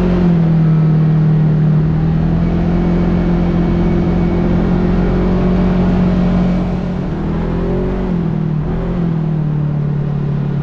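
Kawasaki KRX side-by-side's parallel-twin engine running steadily while under way, its pitch dipping and recovering briefly about seven to nine seconds in.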